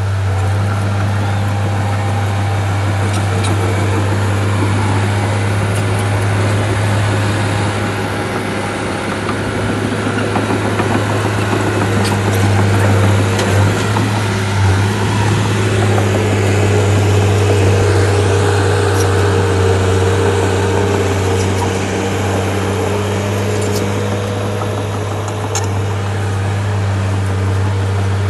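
A bulldozer's diesel engine running steadily with a low, constant drone that grows slightly louder midway.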